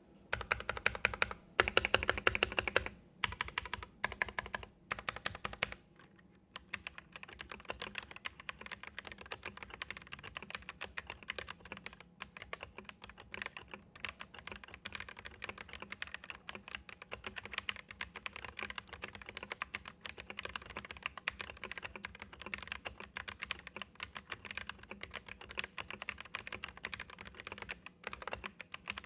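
Noir N1 Pro mechanical keyboard with stock Gateron Red linear switches being typed on. For the first six seconds or so the keystrokes are louder and heavier; after that comes steady, fast typing with many light clicks a second.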